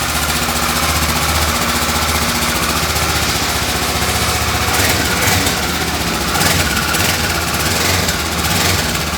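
Kawasaki ER-6n's parallel-twin engine idling steadily. The engine is still cold, and the light rattle it makes once warm is not yet there.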